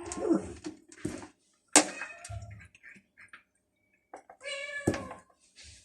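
Stray cats meowing, with one longer meow near the end, from cats that are very hungry. A sharp knock just before two seconds in is the loudest sound, and a second knock comes near the end.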